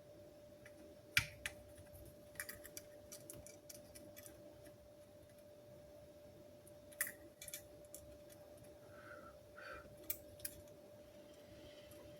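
Scattered light clicks and taps of small tools and parts being handled at a repair bench, over a faint steady hum.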